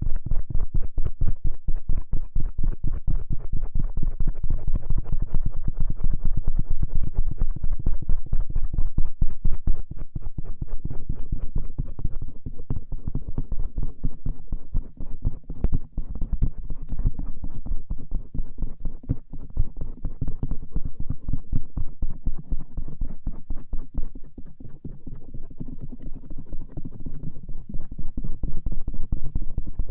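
Stainless steel ear pick scraping and rubbing over the outer ear in rapid, continuous strokes, heard up close and mostly low and muffled.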